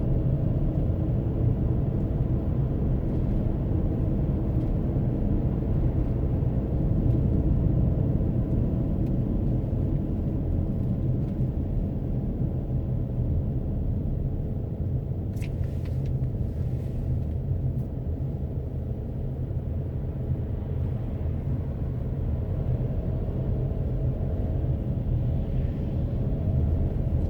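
A car driving along: a steady low rumble of road and engine noise, with a few faint clicks about halfway through.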